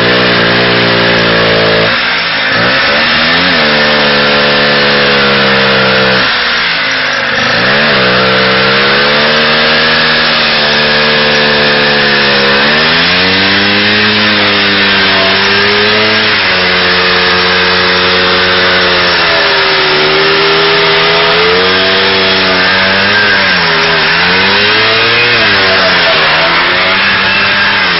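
IZh Planeta 5's single-cylinder two-stroke engine running under load on the trike, its revs rising and falling again and again. The revs drop sharply about 2 and 6.5 seconds in, then build again.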